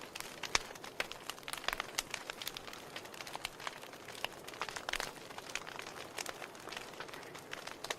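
Wood fire in a fireplace crackling: irregular sharp pops and snaps from the burning logs over a soft steady hiss.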